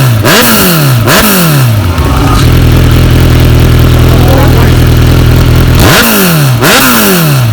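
Superbike with a British-made full-system aftermarket exhaust being blipped. Two quick revs, each rising sharply then falling back, settle to a steady idle, and two more revs follow near the end.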